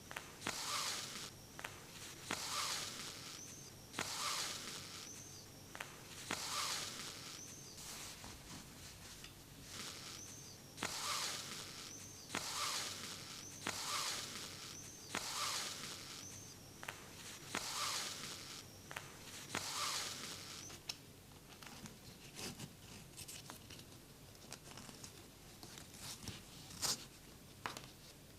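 Thread being drawn through denim by hand: a soft swishing pull roughly every one and a half to two seconds, some ending in a faint squeak of thread on fabric.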